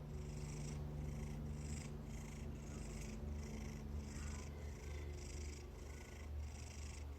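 Cat purring close up, a faint steady low rumble that swells and eases with its breathing, about twice a second.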